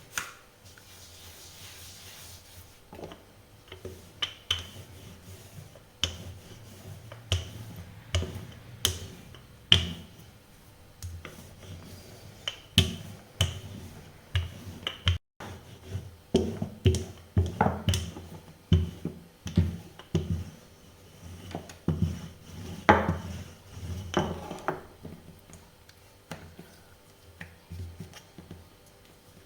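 Small rolling pin rolling out pizza dough on a floured work surface: irregular knocks and taps with rubbing in between, busiest after the middle.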